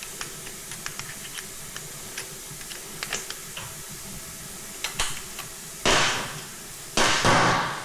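Light clicks and taps of metal hand tools and parts being handled, then two short, loud, hissing bursts of noise about six and seven seconds in.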